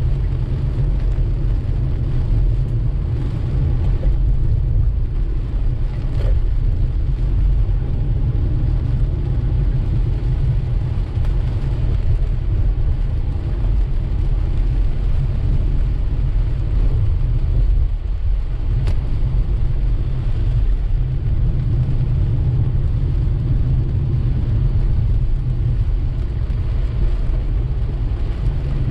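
Steady deep road rumble of a car driving on a wet road in rain, with a fainter hiss of rain and wet tyres above it and a few faint ticks.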